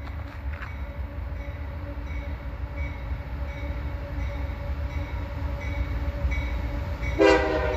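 Approaching diesel freight locomotive rumbling, its bell ringing about twice a second. About seven seconds in, a loud blast of the air horn starts.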